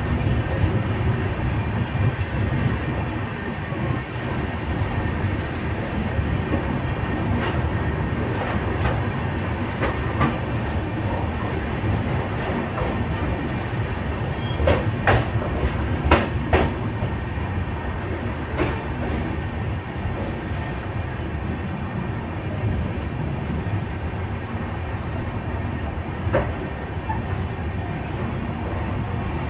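Express train passenger coach rolling along the platform, heard from its open doorway: a steady rumble of steel wheels on the rails. A few sharp clicks and knocks come about halfway through.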